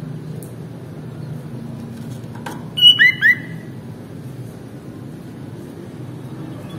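Sooty-headed bulbul (kutilang) calling: about three seconds in, a brief high whistled note followed by two quick slurred notes, loud and close. A steady low rumble runs underneath.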